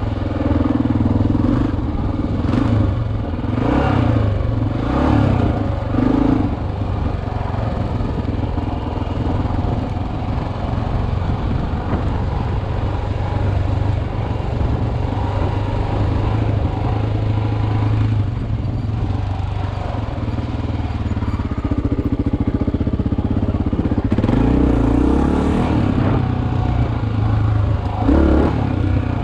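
Single-cylinder four-stroke dual-sport motorcycle engine running under way. The revs rise and fall several times in the first few seconds and again near the end, with steadier cruising between.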